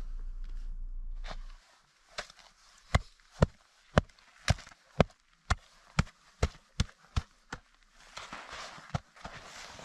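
A run of sharp crunching impacts in snow, about two a second, lasting some five seconds before stopping.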